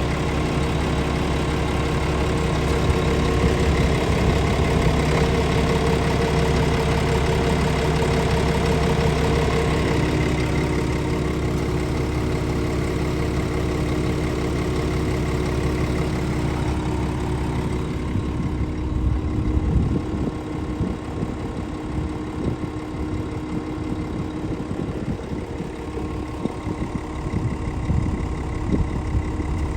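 Scania S500's 13-litre six-cylinder diesel engine running steadily. Its note shifts about ten seconds in, and from about eighteen seconds in it settles into a lower, rougher idle.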